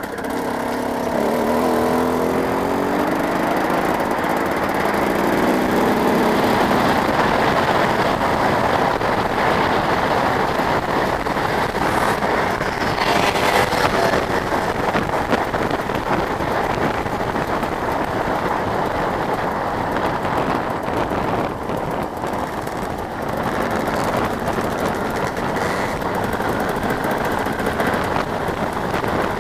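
Motocross motorcycle engines revving hard, their pitch climbing in rising sweeps over the first several seconds, then running on as a dense, steady engine noise.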